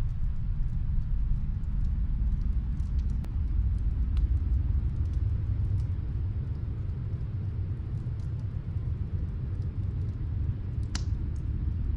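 Snowstorm wind as a steady low rumble, with faint scattered crackles of a wood fire and one sharper pop near the end.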